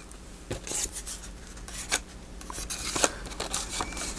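Paper and card being handled at a craft desk: light rustling and rubbing with a few short clicks and taps.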